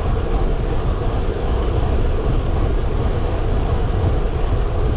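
Steady rush of wind buffeting an action camera's microphone as a road bike rides at speed, a deep, even rumble that drowns out everything else.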